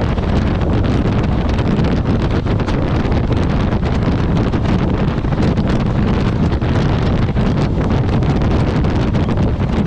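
Heavy wind buffeting the microphone of a motorcycle at road speed, with the bike's engine and road noise underneath, loud and steady.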